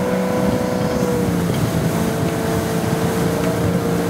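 Ski boat's inboard engine running at towing speed, heard from on board, with wind and water rushing past; the engine note sags briefly about one and a half seconds in, then comes back up.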